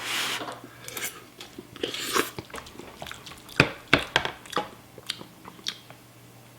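A person taking a first taste of hot instant ramen noodles: two breathy rushes of air, one at the start and one about two seconds in, then chewing with several sharp wet mouth smacks.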